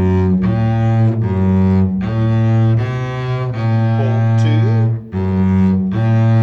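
Double bass bowing a slow bass line of sustained notes, each about half a second to a second and a half long, with a brief break about five seconds in.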